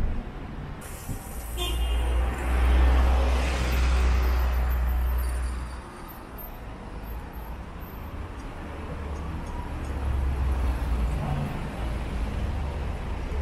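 Street traffic: a vehicle passes close by, swelling to its loudest about three seconds in and fading by about six seconds, then a steadier, lower traffic rumble.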